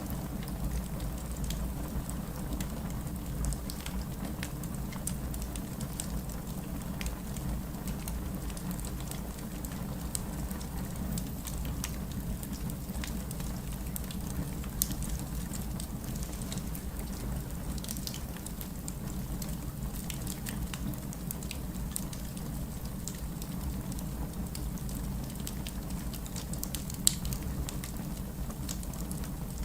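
Campfire burning: wood crackling with scattered small pops over a steady low rumble, and a sharper pop about halfway through and another near the end.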